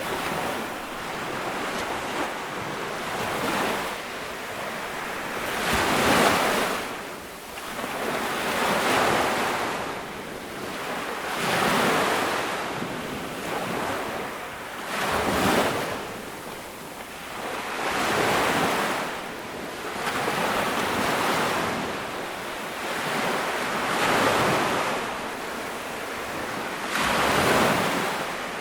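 Ocean waves breaking and washing up a beach, each surge of surf swelling and fading, about one every three seconds.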